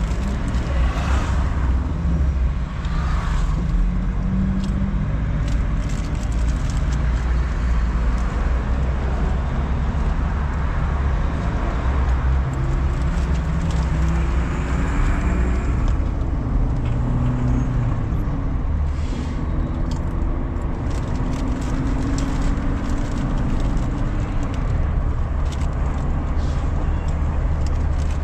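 Car engine and road rumble heard inside the cabin while driving. The engine note rises and falls several times in the middle as the car speeds up and slows.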